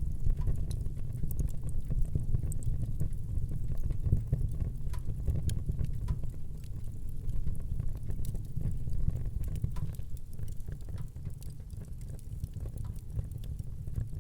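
Fire burning in a fireplace: a steady low rumble of flames with many small, irregular crackles and pops.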